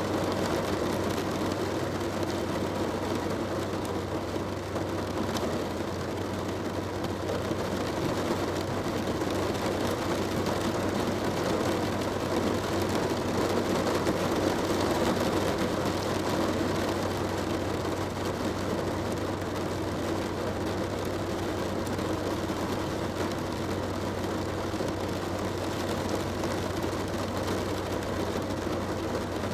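Heavy rain drumming steadily on a car's roof and windows, heard from inside the car, over a steady low hum.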